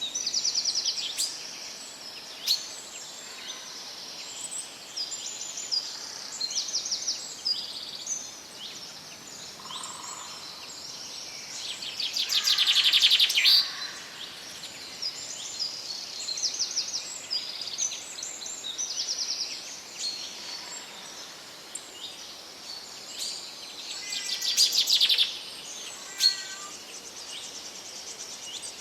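Several songbirds singing and calling together, with many short repeated chirps and fast trills; two louder rapid trills stand out, about twelve and twenty-four seconds in.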